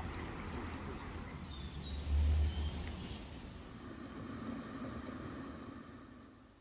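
Outdoor ambience: a steady rushing background with a low rumble that swells loudest about two seconds in, and a few short high bird chirps; it fades out near the end.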